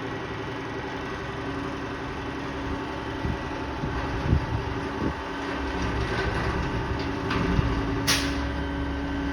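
Garbage truck running steadily, with a few knocks a few seconds in and a short, sharp hiss of air about eight seconds in.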